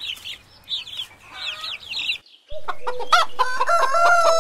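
Chicks peeping in quick, high, falling chirps. About two seconds in there is a cut to a louder stretch of chicken calls, with held notes and rapid clucks.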